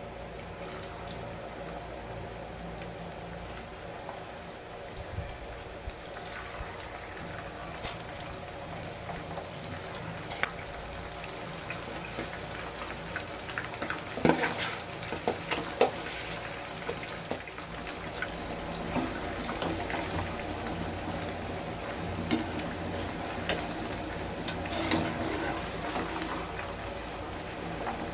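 Cornflour-and-egg-white-coated chicken pieces deep-frying in hot oil, a steady sizzle, with a few sharp taps about halfway through and near the end.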